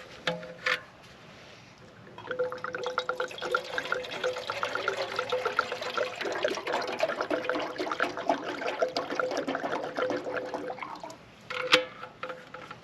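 Water pouring steadily into a small camp coffee percolator for about eight seconds, starting about two seconds in, followed by a single sharp clank near the end.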